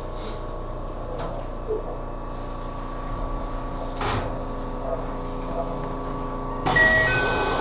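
Train doors opening at a station: a sudden hiss about seven seconds in, then a repeating two-tone door chime, over the train's steady hum.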